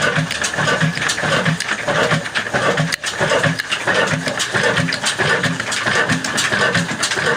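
Slow-speed 30 HP desi 'Kala' oil diesel stationary engine running steadily, with a regular chugging beat about twice a second and a constant clatter of knocks over it.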